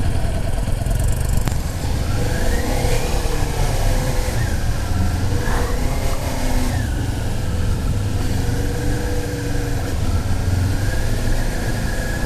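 Motorcycle engine running while riding off at low speed, its note rising as it pulls away, dropping around the middle and rising again near the end, over a steady low rumble.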